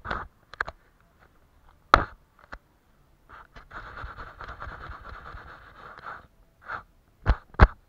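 Painting strokes scraping across paper: a few short strokes, one long stroke about three and a half seconds in lasting roughly two and a half seconds, then quick short strokes near the end.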